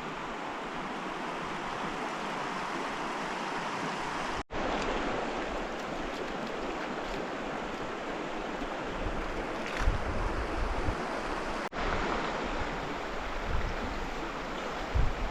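River water rushing steadily, with a few low rumbles of wind on the microphone in the second half.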